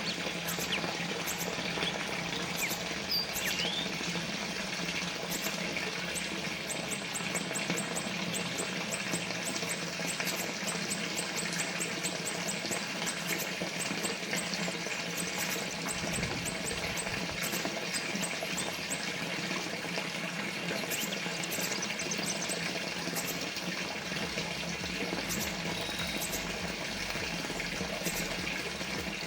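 Small water fountain trickling and splashing steadily, an even, unbroken stream of water sound.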